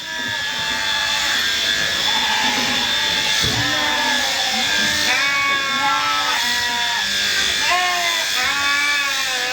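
Sheep bleating again and again, several calls overlapping, over the steady high whine of electric sheep-shearing clippers.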